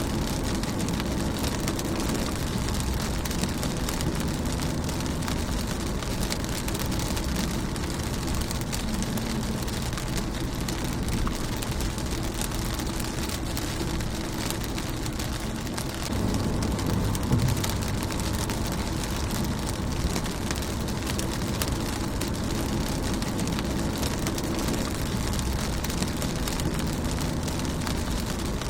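Steady rain on a car's windscreen and body: a continuous patter of drops ticking on glass and metal over a low rumble. About two-thirds of the way through, a low rumble swells up for a couple of seconds.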